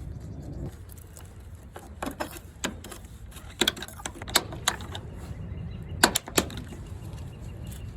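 A dozen or so sharp clicks and taps in uneven clusters as a hand tool works soft aluminum window trim loose, over a steady low hum.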